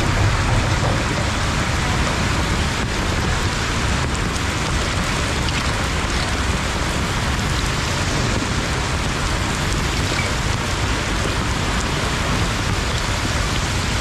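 Steady rush of water in a heavy-rain flood: rain and running floodwater making an even, unbroken hiss with a low rumble underneath.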